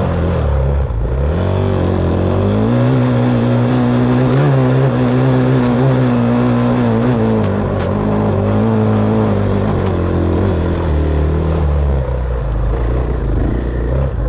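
Dirt bike engine running under load, its pitch rising and falling as the throttle is worked: a dip about a second in, a climb that holds for several seconds, then lower revs near the end.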